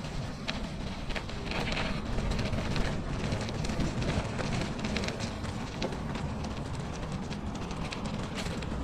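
Bicycle tyres crunching and crackling over snow in many small irregular clicks, over a steady low rumble of wind on the microphone.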